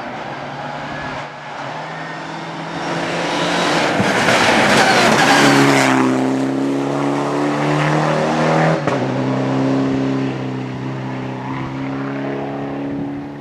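Rally car passing at speed: the engine's note builds with a loud rush of tyre and road noise peaking about four to six seconds in, the pitch drops as it goes by, and the engine then holds a steady note as it pulls away until the sound cuts off at the end.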